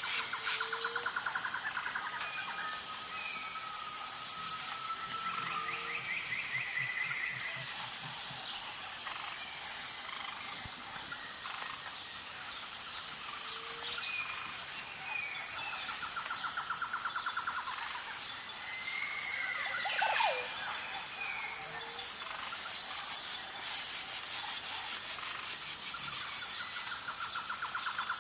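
Nature soundscape: birds chirping and whistling over a steady high-pitched insect drone. Pulsing trills of a couple of seconds each repeat several times, and one louder sweeping call rises and falls about two-thirds of the way through.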